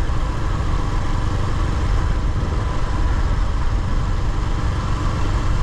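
Steady wind buffeting and road noise on a microphone mounted on a moving motorcycle, with the bike's engine running underneath.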